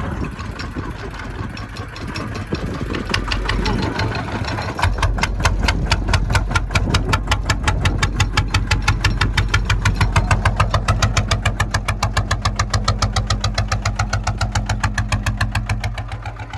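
Kubota ZT 155's single-cylinder diesel engine running with a rapid, even chugging beat of about nine strokes a second. It gets louder about five seconds in and eases off near the end.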